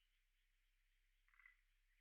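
A frog calling faintly from a pond: one short pulsed call about a second and a half in, over a steady high-pitched background chorus.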